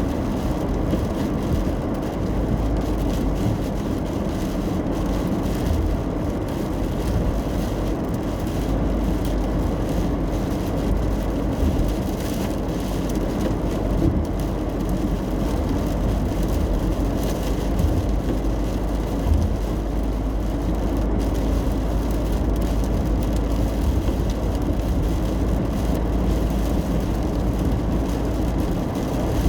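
Steady road and engine noise of a car driving in the rain, heard from inside the car: an even low rumble with hiss of tyres on wet road.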